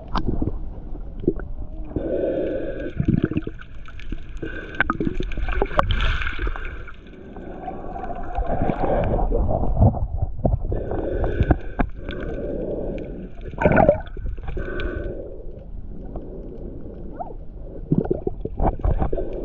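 Water gurgling and sloshing close to the microphone, muffled and uneven, with scattered knocks and clicks.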